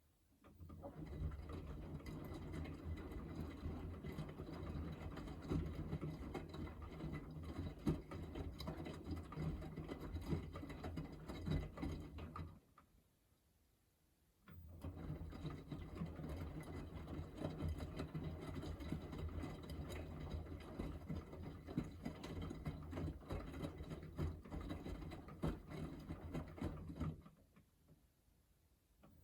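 Miele W3985 washing machine tumbling its wash load during the main wash: the drum motor turns the laundry for about twelve seconds, pauses for about two seconds, then turns again for about thirteen seconds before stopping near the end.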